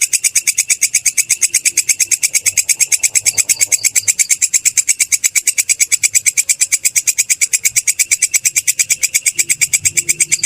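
Belalang kecek katydid calling: a loud, steady train of rapid high-pitched chirps, about eight a second, without a break.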